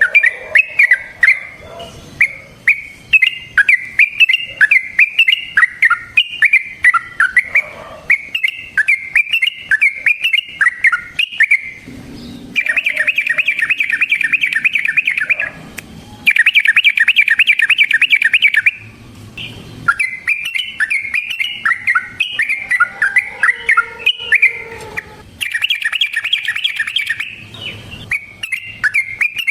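Trucukan (yellow-vented bulbul) singing loudly. It gives chains of short, bubbly, warbling phrases, broken three times by long, fast, rattling trills of a few seconds each: the 'ropel' rolling song that is used as a lure to make other trucukan answer.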